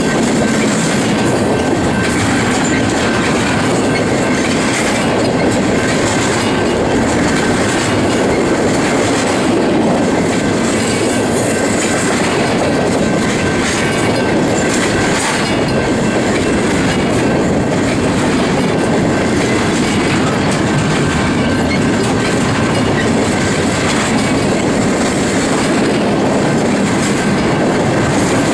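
Union Pacific intermodal freight train's cars rolling past, a steady loud rumble of wheels on rail with clacks over the joints and a thin high ringing tone held throughout.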